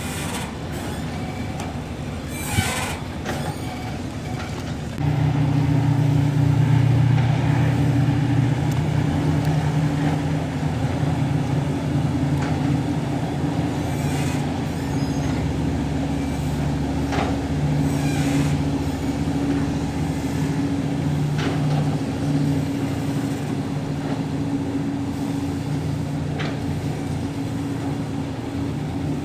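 Diesel engines of a high-speed passenger ferry running with a steady low drone, which jumps louder about five seconds in as the boat departs.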